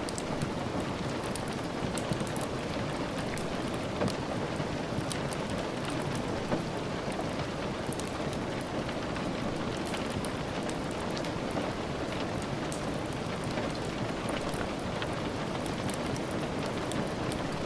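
Steady rain falling, an even hiss with many small sharp ticks and taps scattered through it.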